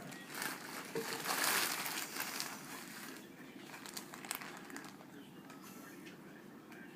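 Rustling and crinkling of packaging being handled, with scattered small clicks; loudest for the first few seconds, then fainter.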